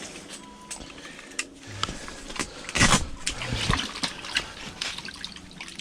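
Water splashing in an ice-fishing hole as a small pike is fought up, with scattered clicks and knocks of handling and a brief loud rush about three seconds in.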